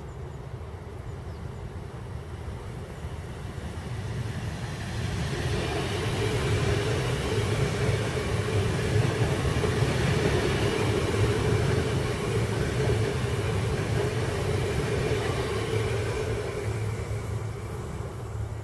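Red DB regional electric multiple-unit train, two units coupled, passing on the tracks: wheel-on-rail rumble and a steady hum swell up about four seconds in, hold through the middle, and fade away near the end.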